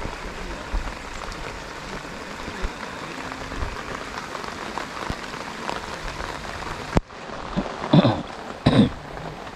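Steady rain falling, a continuous hiss with scattered drop ticks. About seven seconds in the rain noise drops suddenly, and two short loud sounds follow near the end.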